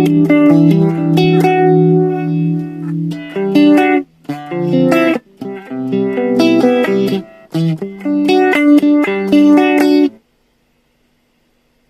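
Clean Telecaster electric guitar through an Animals Pedal Car Crush Chorus/Vibe modulation pedal and a Roland JC-90 amp, playing chords and short note runs with brief pauses. The playing stops about ten seconds in, leaving a faint hum.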